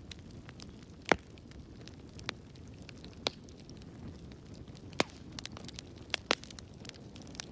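Wood fire burning in a fireplace: a steady low rumble and hiss of the flames with sharp, irregular crackles and pops, the loudest about a second in.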